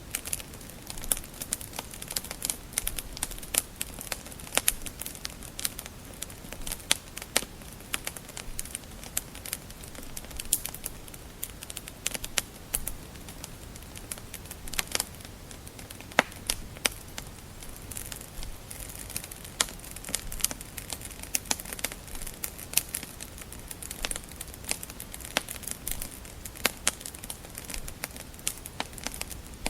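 Wood fire burning in a fireplace, crackling and popping in quick irregular snaps over a low steady hiss.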